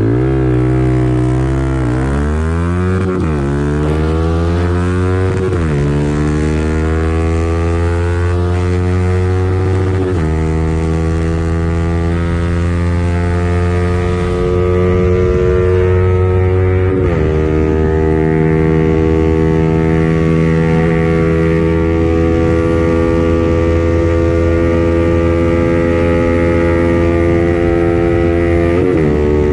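Yamaha R15 single-cylinder four-stroke motorcycle engine accelerating hard through the gears. The engine note climbs and then drops sharply at each upshift, and the shifts come further apart as speed builds. From about halfway through, the pitch holds nearly level at high speed.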